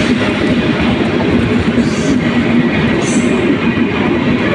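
Intercity express passenger coaches running through a station at speed without stopping: a loud, steady rumble and rattle of steel wheels on the rails, with a few brief high hisses about two and three seconds in.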